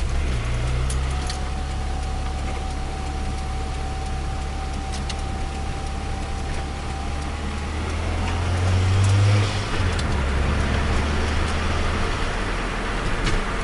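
Turbocharged Nissan Micra engine running steadily, with a thin steady whine over it for the first several seconds. About eight seconds in the engine note swells, then drops off sharply a second or so later.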